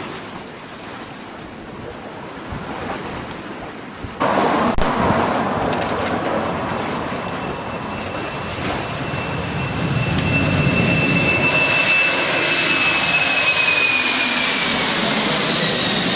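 Boeing 747-400 jet engines at take-off power, a rumbling roar that jumps up sharply about four seconds in and keeps growing louder. High engine whines slowly fall in pitch near the end as the jet passes.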